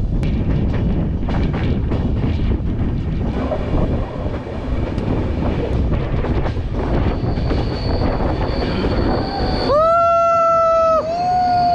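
Passenger train running with a steady rumble and rattle, a thin high squeal joining in partway through. About ten seconds in the locomotive horn sounds: a long blast, a brief break, then a shorter second blast that drops in pitch as it ends.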